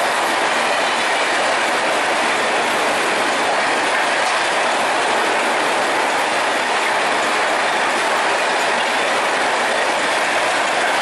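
Passenger train's coaches passing at speed: a loud, steady rush of steel wheels on the rails that does not let up.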